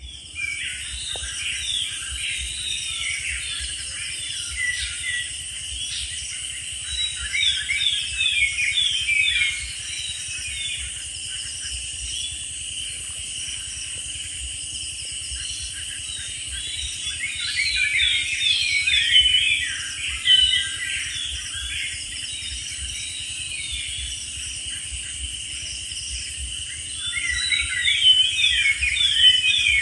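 Small birds chirping in quick, busy runs of short notes that swell in bursts every ten seconds or so, over a steady high insect hum.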